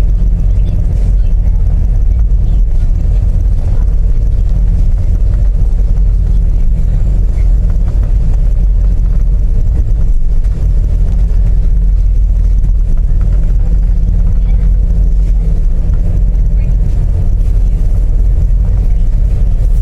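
Steady, loud low drone of the MV Putri Anggraini's engines, heard on board the ship.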